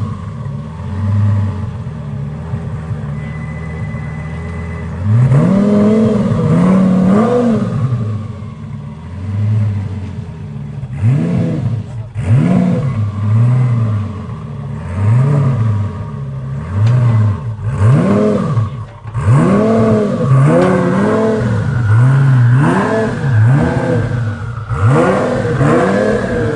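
Twin-turbo Lamborghini Gallardo V10 idling, then revved in a long series of short throttle blips, each rising and falling in pitch, about one a second and coming closer together near the end.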